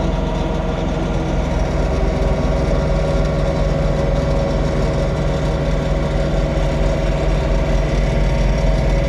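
John Deere 3046R compact tractor's diesel engine running steadily at a constant speed, a low pitched drone that does not rise or fall.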